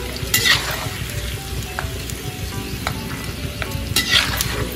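Peanuts crackling and sizzling as they fry in hot oil in an iron wok, with a steel slotted spoon sweeping through the oil twice, about half a second in and about four seconds in, as the fried peanuts are scooped out.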